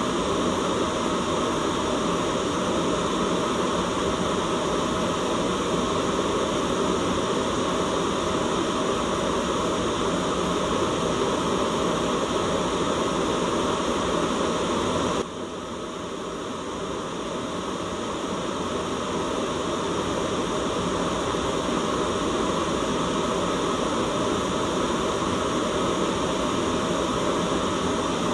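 Steady white-noise hiss with no pitch or rhythm. About fifteen seconds in it suddenly drops in level and then swells back to full over the next few seconds.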